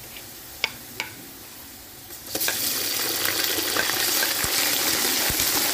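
Two short clicks, then about two seconds in a loud, steady sizzle starts as wet ginger paste hits hot oil with light-browned onions and froths up.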